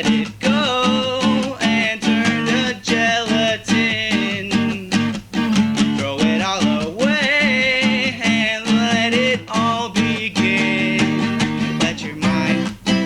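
Music: an acoustic guitar playing with a steady strummed rhythm.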